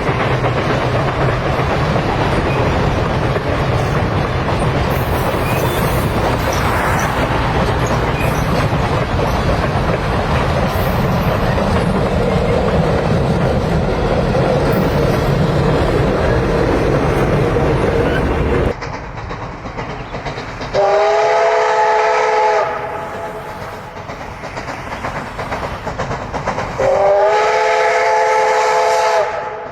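Train rolling along the rails with a steady rumble that cuts off abruptly about two-thirds of the way in. Then two long chord-like whistle blasts sound a few seconds apart.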